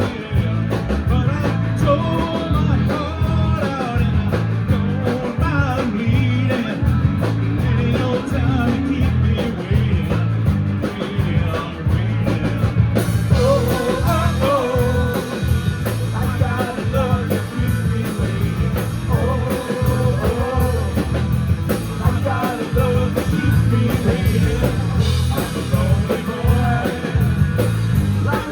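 Live rock band playing a song: singing over electric guitars, bass, keyboard and drum kit, with a steady pulsing beat. About 13 s in the band gets fuller and brighter.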